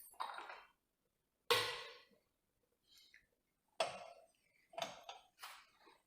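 Several separate knocks and clinks of cookware being handled on a stove, the loudest about one and a half seconds in with a short ringing fade.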